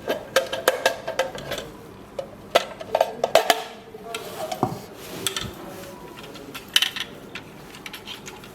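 Plastic housing parts of a wireless rain gauge clicking and knocking as the base is unlatched and pulled from the upper cover. The clicks come irregularly, with clusters near the start, in the middle and again late.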